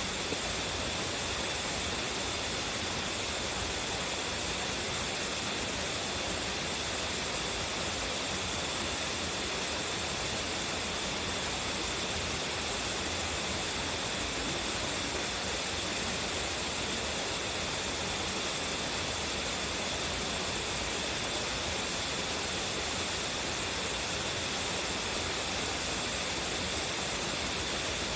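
Waterfall with a strong flow: water plunging and splashing in a steady, unbroken rush.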